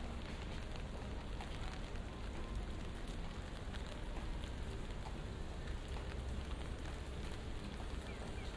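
Light rain falling steadily on a wet paved alley, a dense patter of small drop ticks over a steady low rumble.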